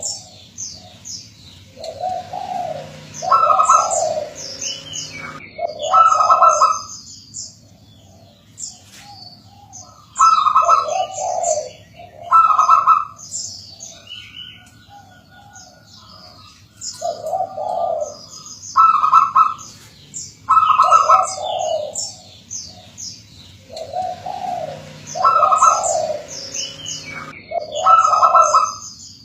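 Zebra doves (perkutut) cooing in repeated phrases every couple of seconds, with short pauses between runs. Small birds chirp at a much higher pitch over the coos.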